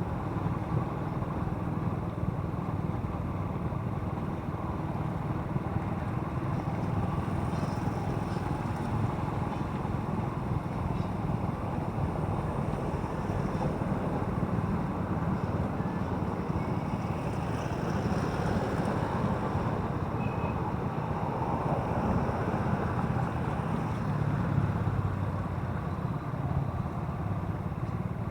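Motorcycle running steadily on the move, its engine and road noise an even low rumble with no pauses.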